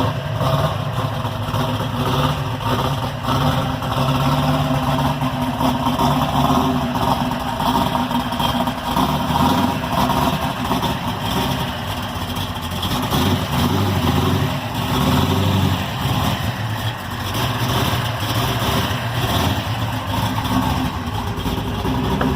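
Chevrolet Camaro's V8 engine running, mostly idling with the pitch and level rising and easing now and then as it is revved or driven.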